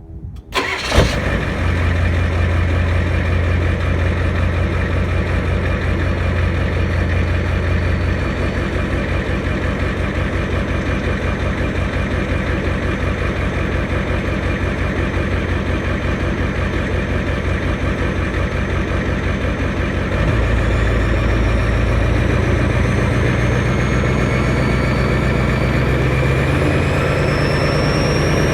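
Ford 7.3L IDI V8 diesel with a Banks Sidewinder turbo and straight-piped exhaust starts about a second in, then idles steadily with a deep pulsing exhaust note. The note steps up about 20 seconds in, and a faint high whine rises slowly near the end.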